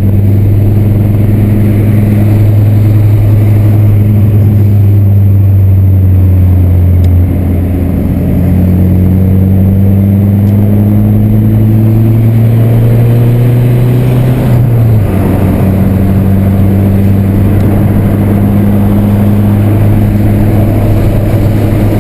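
VW Santana's 2.0 AP four-cylinder engine pulling under acceleration, its pitch slowly rising and then dropping suddenly at a gear change about seven seconds in and again at about fifteen seconds, then holding steady.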